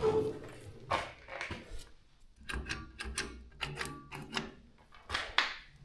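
A run of irregular sharp clicks and knocks, a dozen or so, unevenly spaced and clustered in places.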